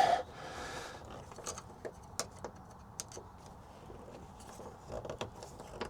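Faint scattered clicks and scrapes of a screwdriver turning a worm-drive Jubilee clip tight on a small fuel pipe, with a short louder rustle right at the start.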